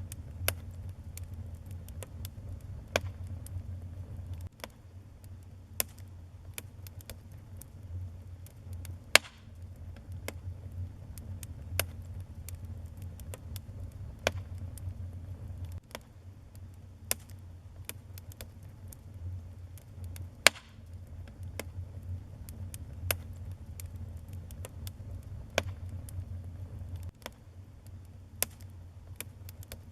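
Wood fire burning in a fireplace, crackling with frequent irregular snaps and pops over a low rumble. Two louder pops come about nine seconds in and again about twenty seconds in.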